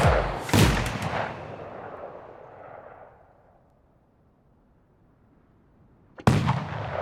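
Fireworks bursting: a sharp boom about half a second in, trailing off in a long fading rumble, then a second sharp boom near the end.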